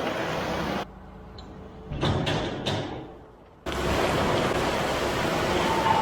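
Steady noise of running farm machinery, cut off abruptly about a second in and replaced by a quieter stretch with a few sharp knocks or thuds, before the machine noise resumes abruptly just past the middle.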